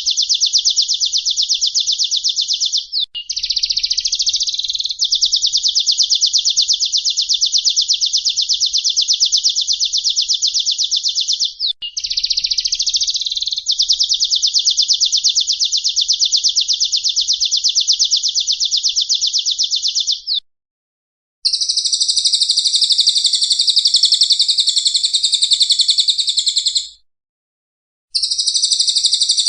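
Edited recording of songbird song: a loud, rapid, high trill held for long stretches with brief changes, then cut off abruptly about 20 seconds in. After a second of dead silence, a fuller, different bird song starts, which itself cuts out for a second near the end before resuming.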